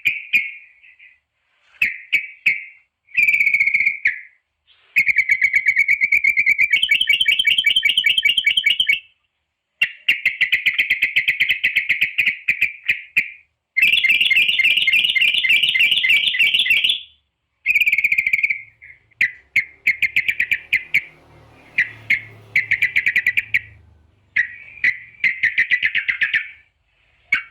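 Yellow-vented bulbuls (trucukan) calling: long bouts of rapid bubbling chatter lasting a few seconds each, broken by short calls and brief gaps.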